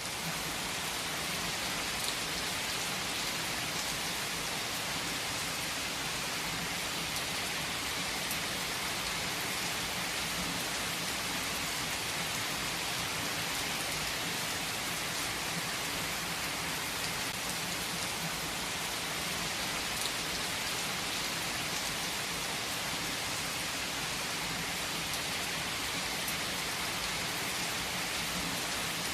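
Heavy rain falling steadily on surfaces: a dense, even hiss with the patter of individual drops and no letup.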